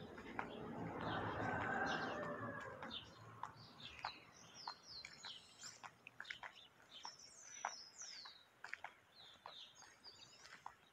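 Small birds chirping and whistling, with many short chirps and quick falling notes. In the first three seconds a louder rush of noise swells and fades.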